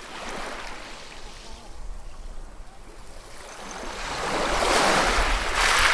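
Ocean waves washing on a shore: a small wash at the start, then a wave swells and breaks near the end, the loudest moment.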